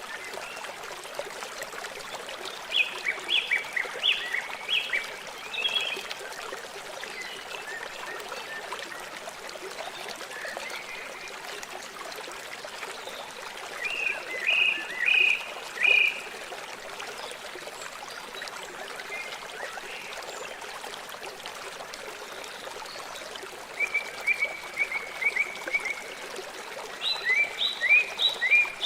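River water flowing steadily, with short high chirping calls in quick runs a few times, about 3, 14, 24 and 27 seconds in.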